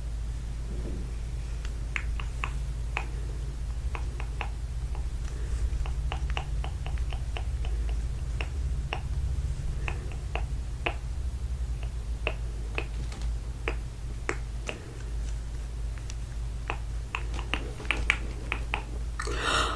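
Sharp, crisp clicks or taps in irregular clusters, often several a second, over a steady low hum. A short rustling burst comes near the end.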